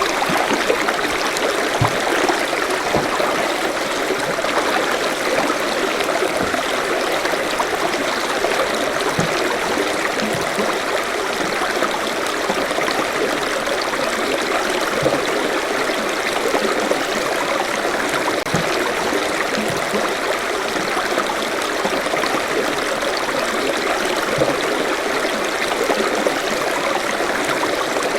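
Forest stream flowing over rocks: a steady rush of running water with small gurgles and plops.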